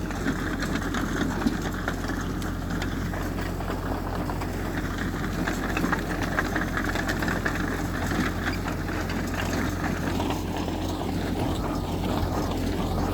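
Heavy diesel engine of an earthmoving machine running steadily, a constant low drone.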